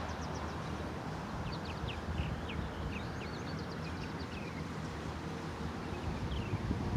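Small birds chirping: quick, high, falling notes repeated many times, over a steady low background rumble.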